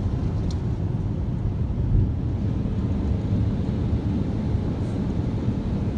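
Steady low rumble of car wash tunnel machinery while the conveyor pushes the car out of the tunnel, with a couple of faint clicks.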